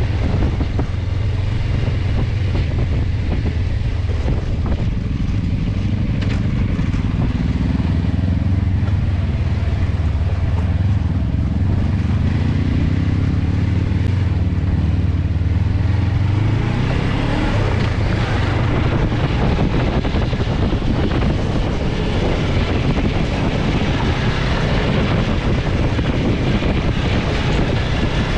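Suzuki Inazuma 250 parallel-twin motorcycle engine running on the move, its pitch rising and falling with the revs, with wind noise on the microphone. From about 17 seconds in a loud rush of wind grows and covers much of the engine.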